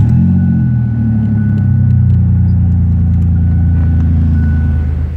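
1998 Ford Ranger's 3.0-litre V6 running at a steady idle right after starting, with a loud, low rumble from the exhaust because the muffler is disconnected.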